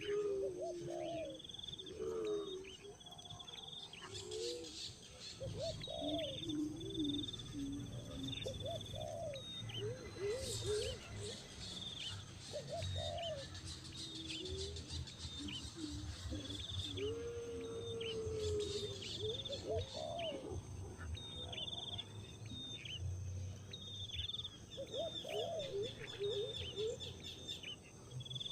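Birds chirping and calling: rapid, repeated high chirps together with lower, rising-and-falling calls.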